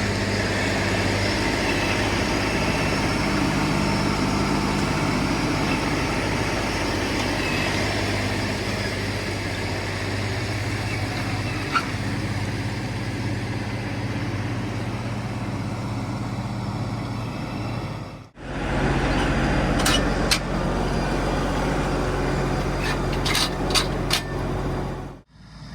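LS MT357 tractor's diesel engine running steadily while working gravel. The sound cuts out briefly twice. After the first break, sharp clicks and knocks sound over the engine.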